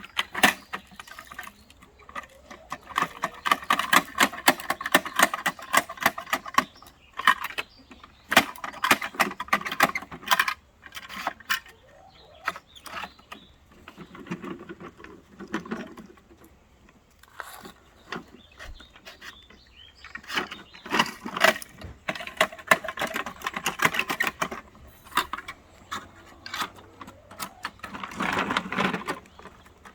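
Garbage truck working a yard-waste pickup: repeated metallic clattering and knocking, coming in bursts of a few seconds with quieter gaps between.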